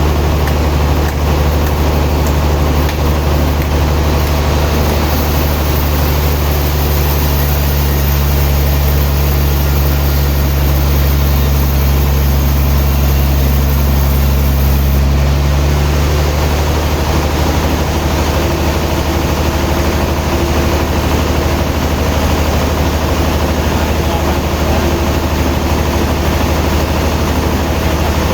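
Sawmill machinery running steadily with a loud, low engine drone. About halfway through the sound shifts as a high hiss and some of the engine's upper tones drop away.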